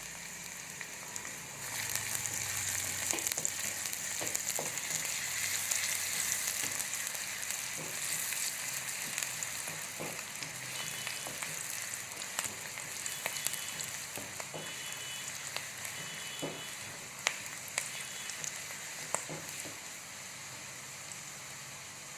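Chopped onion sizzling as it fries in hot oil with garlic in a pan, with scattered clicks of a spoon stirring against the pan. The sizzle jumps louder about two seconds in, then slowly eases off.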